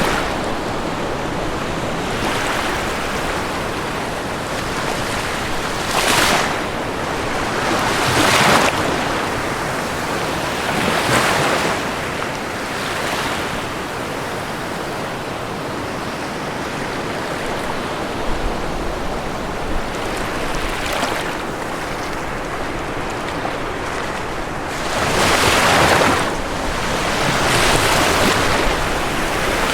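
Ocean waves washing onto a shore: a continuous surf wash with louder breakers surging in every few seconds, the strongest about two-thirds of the way through and again near the end.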